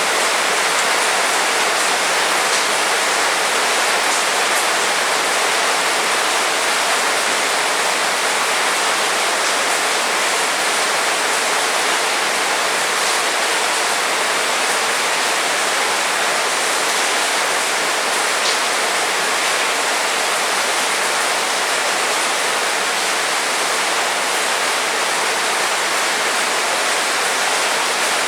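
Heavy rain falling steadily, a dense even hiss with a few faint drip ticks.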